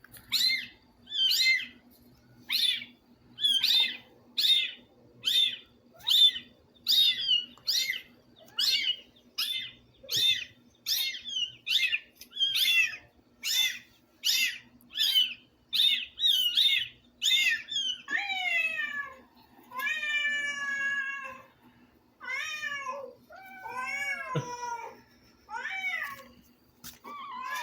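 Recorded cat meows played back: a rapid run of short, high-pitched mews, about two a second, then from about eighteen seconds in, longer drawn-out meows that rise and fall in pitch. A faint steady hum lies underneath.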